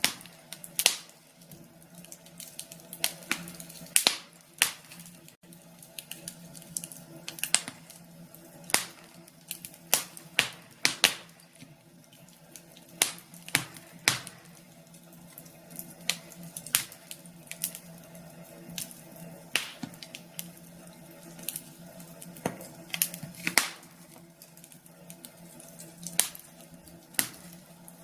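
Burning logs in a fireplace crackling: irregular sharp pops and snaps, several a second at times with a few louder cracks, over a faint steady low hum.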